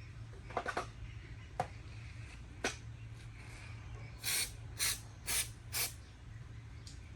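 A few light clicks and taps of tools, then four short hissing sprays in quick succession, about half a second apart.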